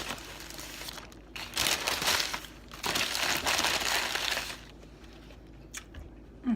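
Sandwich wrapping crinkling as it is handled and opened, in two long rustling stretches, with a few short clicks near the end.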